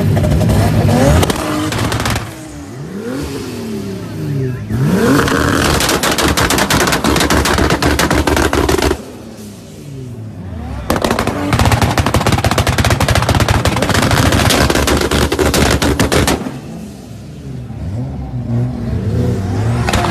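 Turbocharged Toyota Supra engine revved in quick blips with rising and falling pitch, then giving two long runs of rapid machine-gun-like crackling bangs, each about four to five seconds, with the revs dropping in between.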